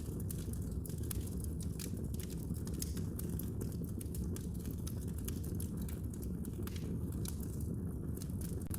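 Wood fire burning in a fireplace, with a steady low roar and many irregular small crackles and pops.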